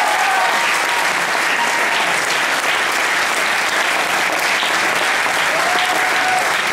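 Audience applauding steadily, with a few cheers and whoops through the clapping.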